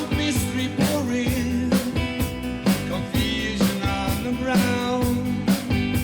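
A rock band playing and singing, with guitar and a steady drum beat.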